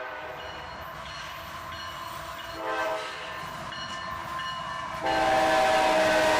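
Diesel locomotive's multi-note air horn sounding as a train approaches: a fainter chord at first, a short blast about halfway through, then a loud, long blast starting about five seconds in, over the low rumble of the train.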